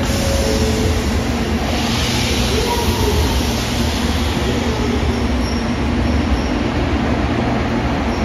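Train running on the rails: a loud, steady rumble with a few faint, thin squealing tones and a brief louder hiss about two seconds in.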